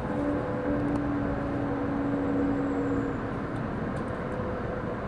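Cabin noise of a 700 series Shinkansen pulling into a station platform: a steady rumble with a held whine over the first three seconds or so.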